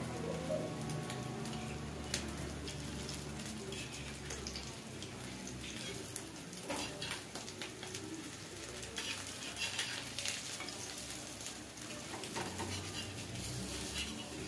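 Potato tikkis sizzling in desi ghee on a flat iron tawa, with scattered clicks and scrapes of a steel spatula pressing them against the pan.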